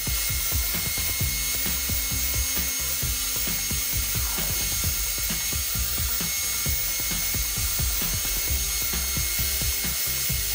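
A power saw's circular blade, mounted under a homemade wooden saw table, running with a steady high whine as it cuts through wooden boards fed across it. Background music plays alongside.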